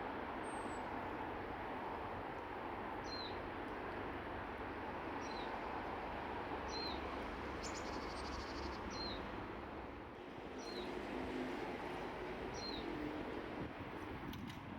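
A small bird repeats a short, high call note that drops in pitch, about once every second and a half, over a steady background rush. A quick run of faint ticks comes a little before the middle.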